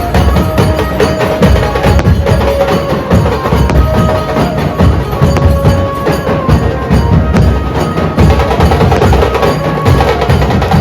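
Mumbai-style dhol group drumming loudly in a fast, dense rhythm, with a melodic line of held notes above the drums.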